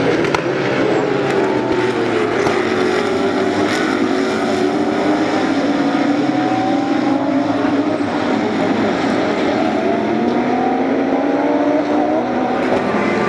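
Several GT3 race cars running at racing speed, their overlapping engine notes rising and falling as they accelerate, shift and brake.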